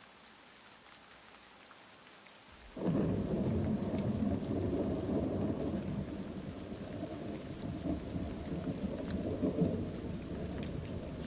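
Light rain hissing, then a long rumble of thunder sets in suddenly about three seconds in and carries on to the end over the rain.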